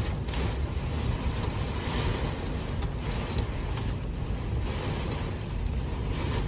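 Squall-line thunderstorm wind and heavy rain beating against a vehicle: a steady, loud rush with a deep rumble underneath and scattered sharp ticks.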